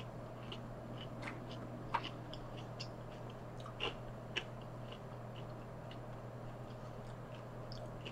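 Close-up chewing of crispy fried coconut shrimp: soft wet mouth sounds with small crunching clicks and a few sharper crunches about two and four seconds in, over a low steady hum.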